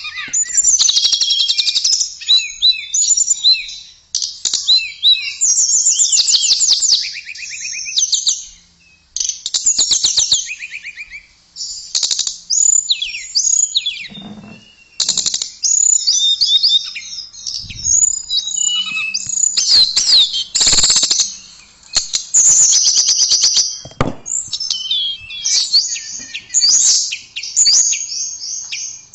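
Tledekan (small Asian blue flycatcher) singing a long, varied run of high, fast chirps and rapid trills, broken by short pauses every few seconds.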